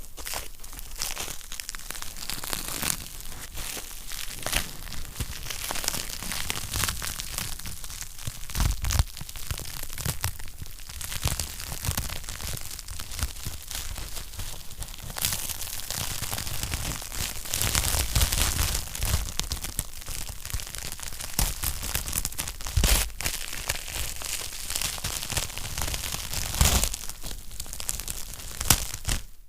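Wood fire crackling in a fireplace: a dense, irregular run of snaps and pops over a soft hiss, with a few louder pops standing out.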